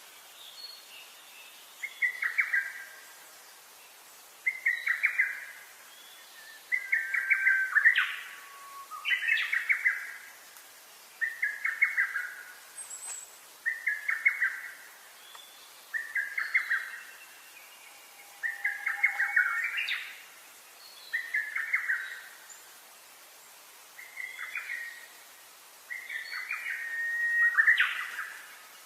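A songbird singing, repeating the same short phrase about once every two seconds, some phrases ending in a quick upward sweep.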